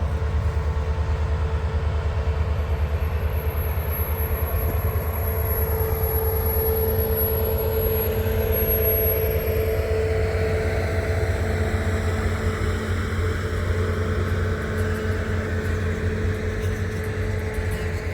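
An engine running steadily, a fast, even low throb with a held mid-pitched tone over it.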